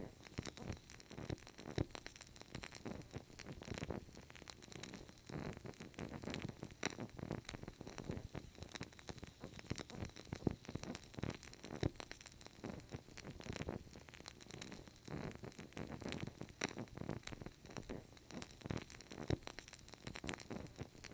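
A burning candle crackling: a dense, irregular run of small soft pops and clicks.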